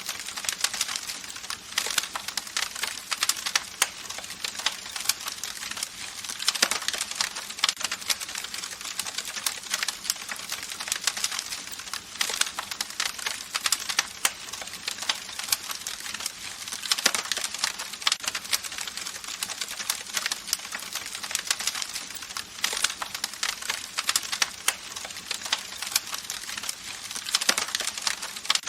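Campfire crackling: dense, irregular pops and snaps over a steady hiss of burning wood, swelling into busier bursts of crackle now and then.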